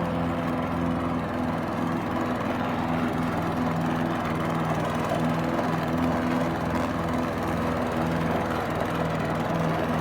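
Gas walk-behind lawnmower's small engine running steadily at a constant speed.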